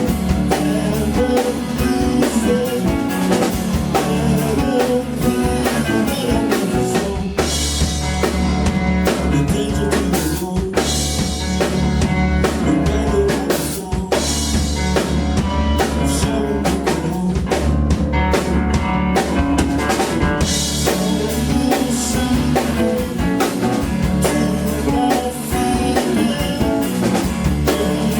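Live band playing an instrumental passage on drum kit, electric guitar and bass, with a steady beat.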